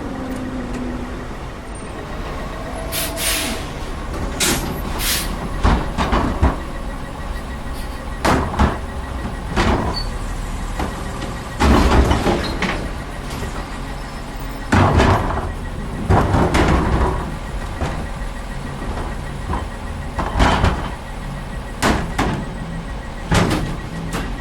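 CCC LET2 garbage truck with a Heil side-loading body idling steadily. About a dozen sudden loud bangs, clanks and hissing bursts come at irregular intervals over the engine, typical of containers and trash being worked into the hopper.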